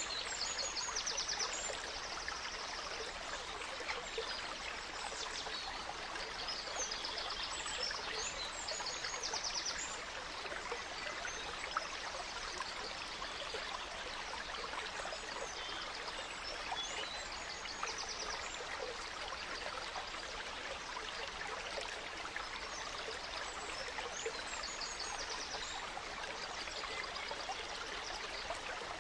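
A gentle stream flowing steadily, with small forest birds singing over it in quick trills and chirps, busiest in the first ten seconds and again briefly later on.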